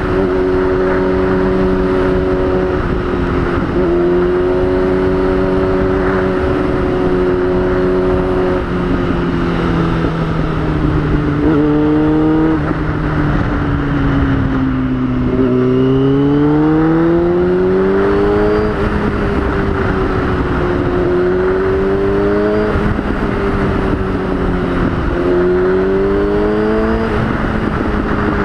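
2003 Yamaha YZF-R6's 600 cc inline-four engine running under way. Its note holds steady, dips briefly at a gear change, sags through the middle with a short quick blip, climbs for several seconds on the throttle, then rises and falls near the end.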